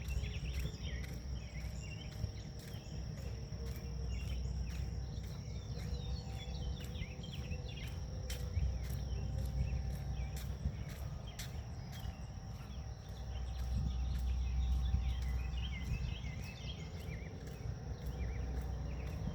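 Forest ambience: insects keep up a steady high-pitched trill with a regular pulsing tick, while birds chirp here and there. Under it a low wind rumble swells for a few seconds past the middle.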